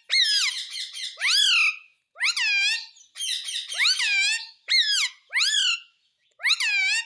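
Pet parrot calling over and over: about eight loud, high calls in quick succession, each swooping up and then down in pitch.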